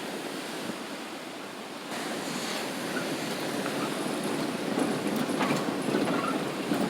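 Ocean surf: waves breaking and washing in as a steady rush. It swells about two seconds in and again around five seconds.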